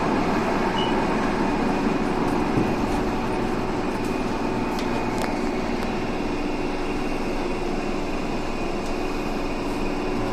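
Saitama Railway 2000 series electric train running: a steady rumble of wheels on rail with a few steady hum tones mixed in.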